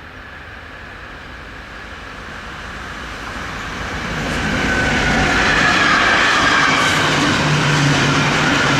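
An electric train on the Rhine railway approaching and coming past close by, growing louder over about five seconds and then running loud, with wheel rumble and a high whine over it.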